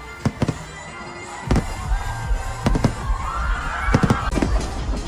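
Fireworks exploding in a series of sharp bangs, coming faster and heavier from about a second and a half in, with a low rumble building beneath them.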